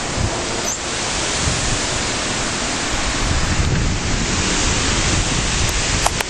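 Strong storm wind blowing in gusts: a loud, steady hiss with heavy rumbling where it buffets the microphone.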